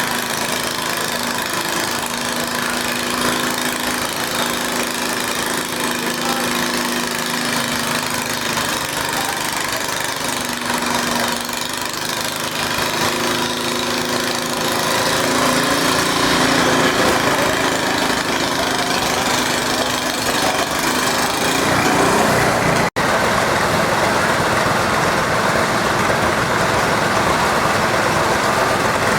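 Garden tractor engine running, its pitch mostly steady with small rises and falls. About two-thirds through there is a momentary dropout, and after it the sound is rougher and noisier.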